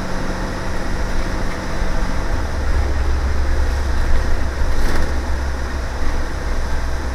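Diesel school bus running down the road, heard from inside the bus: a steady engine hum with road noise. The engine note changes about two seconds in, dropping to a deeper, stronger hum.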